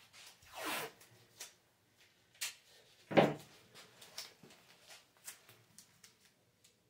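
Masking tape being pulled off the roll in a rasping strip and pressed down along the fin root to catch excess epoxy, with a few small clicks and one loud knock about three seconds in.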